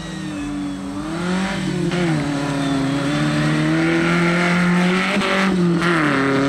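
Off-road race 4x4's engine revving under load, its pitch rising and dropping several times with throttle and gear changes. It grows louder as the vehicle comes closer.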